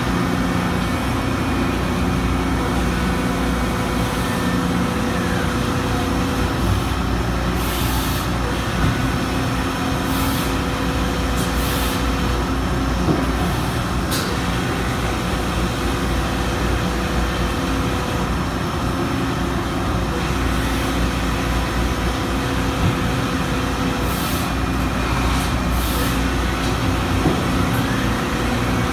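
A CNC mill peel milling 17-4 PH stainless steel with a 9-flute solid carbide end mill, a steady cutting and spindle sound with a few held tones in it. Brief hissing bursts break in every few seconds.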